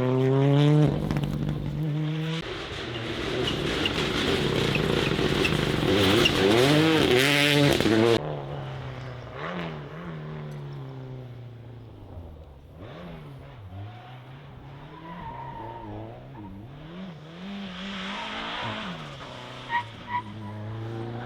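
Rally car engines revving hard through gear changes, the pitch climbing and dropping, until a sudden cut about eight seconds in. After the cut a quieter rally car revs up and down, with two sharp pops near the end.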